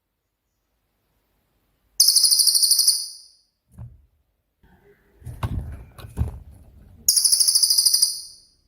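Cililin bird giving two rapid, high-pitched trilling bursts (the "tembakan" shots prized for masteran), each about a second and a half long, one about two seconds in and one near the end. Between them come a few low thumps and clicks.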